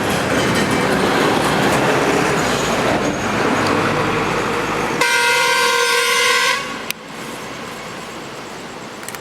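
Loud rushing noise, then about five seconds in a vehicle horn sounds one steady note for about a second and a half and cuts off; a quieter steady rush carries on after it.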